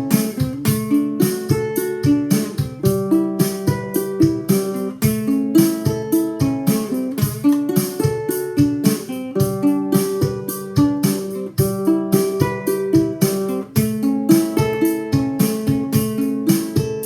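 Ukulele finger-picked in a repeating thumb-and-three-finger pattern, over a drum machine keeping a steady beat.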